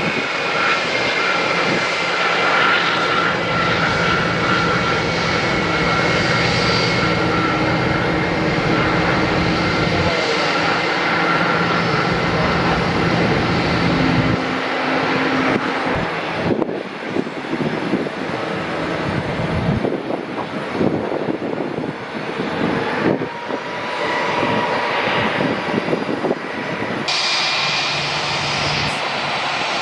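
Airliner jet engines running: a steady rushing noise with high whining tones, changing abruptly about halfway through and again near the end.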